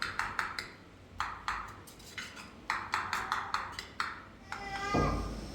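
A run of sharp clinks and taps, several a second and in short clusters, each ringing briefly. Near the end a drawn-out pitched call begins.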